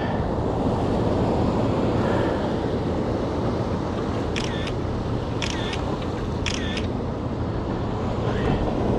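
Three identical phone camera shutter sounds, about a second apart in the middle, over a steady rush of wind and water around the boat.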